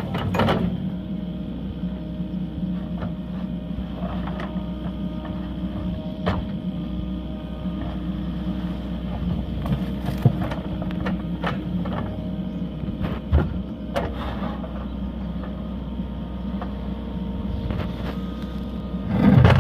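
An engine running steadily at an even speed, with a few sharp knocks and clanks over it.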